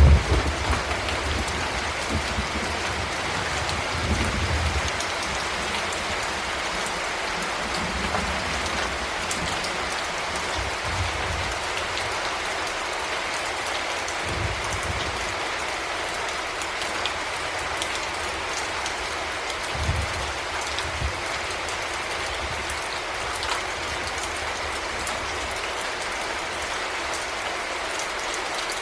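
Heavy rain falling steadily, a dense hiss of drops with fine patter. Low rumbles swell and fade every few seconds, the loudest right at the start.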